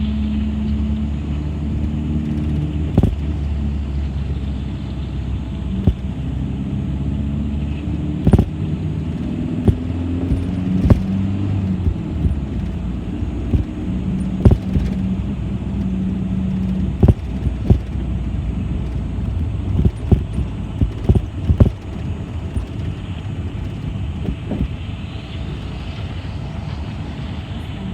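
Inside a moving city bus: the engine runs with a low note that rises and falls as the bus speeds up and slows. Frequent sharp knocks and rattles are heard, thickest in the middle of the stretch.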